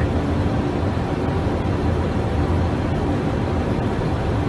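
Steady cockpit noise of an Airbus airliner on final approach: a low, even rumble of airflow and engines with a faint steady hum above it.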